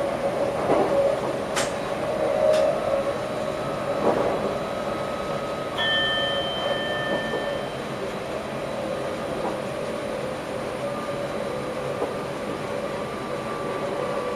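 Electric passenger train running, heard from inside the driver's cab: a steady rumble with a faint hum, two sharp clicks early on, and a steady electronic tone of two pitches that sounds for about two seconds around the middle.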